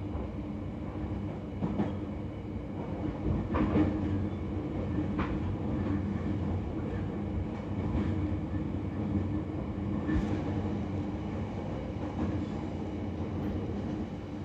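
Electric train running, heard from inside the passenger car: a steady rumble of wheels on rails with a low hum, broken by a few sharp clicks as the wheels pass rail joints.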